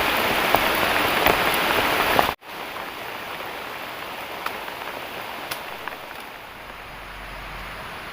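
Heavy rain pouring down, a loud steady hiss with scattered drop ticks. It cuts off abruptly about two seconds in, leaving a much quieter hiss with occasional drips.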